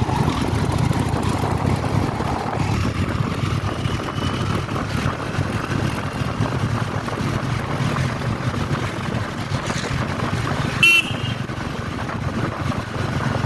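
Royal Enfield Meteor 350's single-cylinder engine running steadily while riding, with one short horn beep near the end.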